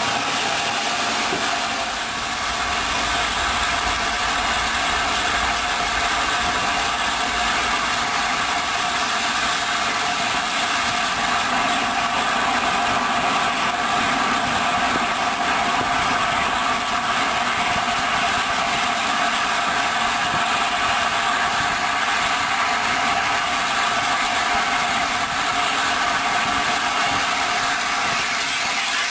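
Steady, unbroken train noise from the steam-hauled Severn Valley Railway train, a continuous hiss and hum with several held tones and no distinct beats.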